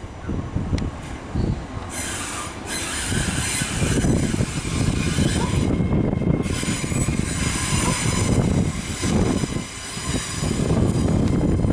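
GWR Class 800 Hitachi Intercity Express Train running through the station, a continuous noise of wheels on rails and running gear, with a rushing hiss that swells and fades several times.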